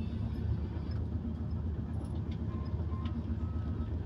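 Passenger train running along the track, heard from inside the coach: a steady low rumble of wheels on rails, with a few faint ticks and short high tones over it.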